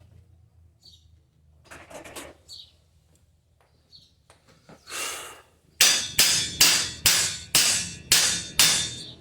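A run of about eight sharp hammer blows, a little over two a second, each dying away quickly, preceded by a short scraping sound.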